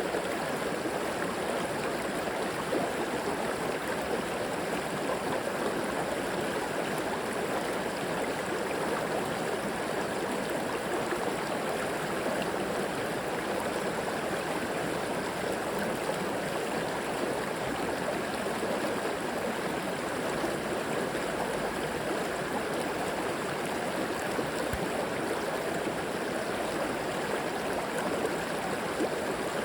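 Flowing river water rushing and gurgling steadily over rocks, an even wash of sound with no breaks.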